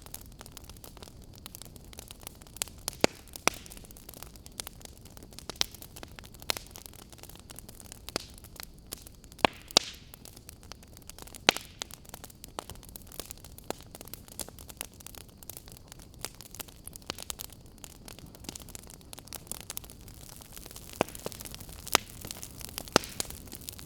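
Fire crackling: irregular sharp pops and snaps, a few every second with some louder ones, over a steady soft hiss.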